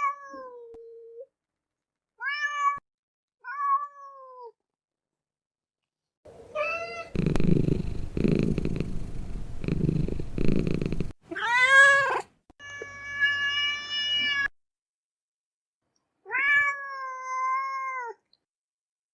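Domestic cat meowing: about six separate meows, some short and falling, one long and held steady, with a stretch of low, pulsing rumble in the middle.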